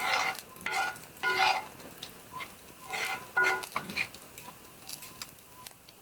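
Metal utensil scraping and stirring in a pan: a series of short, ringing scrapes, busiest in the first half.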